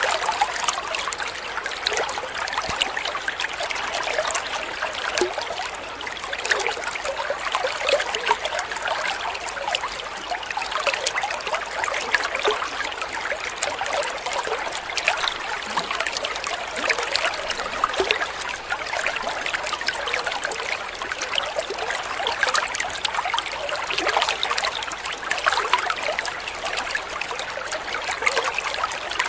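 Water trickling and babbling steadily over stones in a small stream, an even rush with many small splashes.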